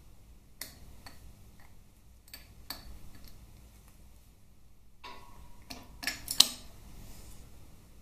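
Scattered light metallic clicks and clinks of parts and tools being handled, with a cluster of sharper clinks about six seconds in, the loudest near the end of that cluster.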